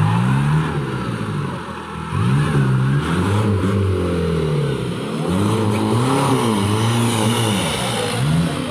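Off-road race vehicle's engine revving up and down over and over, its pitch rising and falling about once a second, as when the driver works the throttle through an obstacle.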